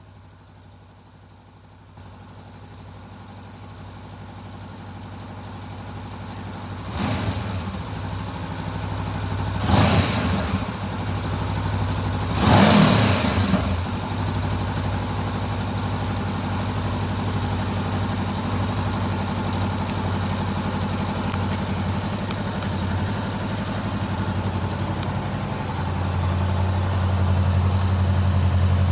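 Honda CBR400R's parallel-twin engine idling, with three short throttle blips in the first half, then settling into a steady idle that grows louder near the end.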